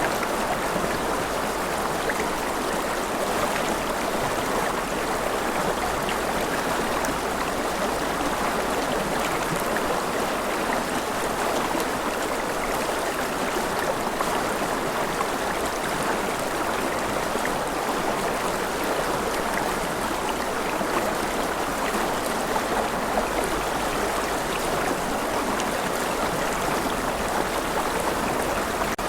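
Steady gentle rain, an even wash of water noise with faint scattered drop ticks.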